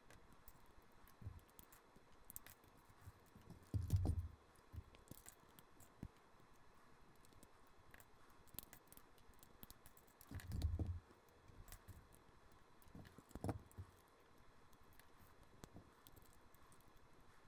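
LEGO bricks clicking and rattling as a model is pulled apart by hand, with a few dull thumps, the two loudest about four seconds and eleven seconds in.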